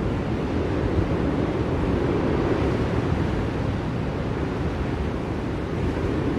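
Blizzard wind blowing as a steady, low rushing noise.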